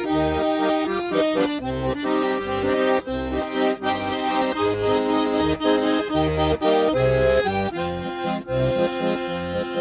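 Russian garmon (button accordion) playing an instrumental passage: a melody over held chords, with short bass notes pulsing on a steady beat.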